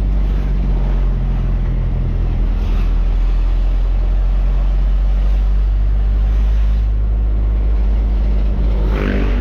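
Truck engine running steadily while driving: a continuous low drone under road noise.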